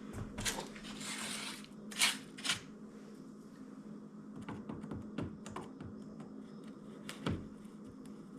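Plastic clicks, taps and knocks of a car's cowl panel and its trim clips being worked loose by hand, with a brief rustle about a second in and the loudest knocks near two and two and a half seconds in, over a steady low hum.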